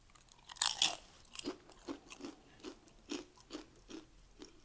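Close-up crunching and chewing of a mouthful of Doritos nacho chips: a loud crunchy bite just under a second in, then steady chewing at about two to three chews a second.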